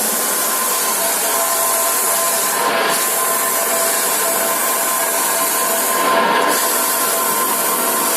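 3D H-beam CNC drilling line running: a steady grinding, hissing machine noise with faint steady tones. The high hiss drops out briefly twice.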